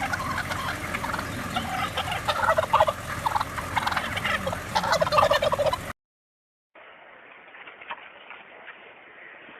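A crowd of birds calling at once, a dense run of short rapid calls that cuts off suddenly about six seconds in. After a moment of silence comes a quieter stretch with faint calls.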